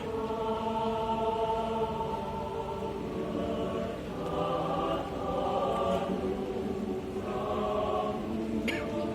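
Choir singing a hymn in slow, long held chords, moving to a new chord about four seconds in and again about seven seconds in.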